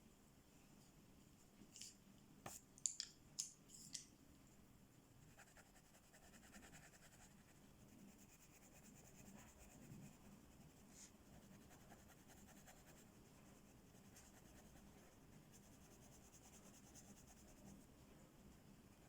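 Faint scratching of colouring strokes on a paper page, with a handful of sharp clicks about two to four seconds in.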